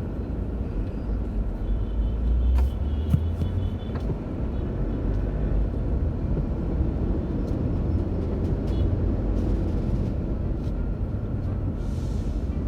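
Car's engine and road noise heard from inside the cabin: a steady low rumble.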